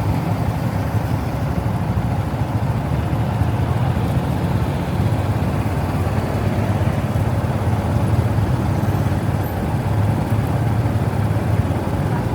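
Honda Monkey's single-cylinder four-stroke engine running steadily while riding, with wind noise on the microphone.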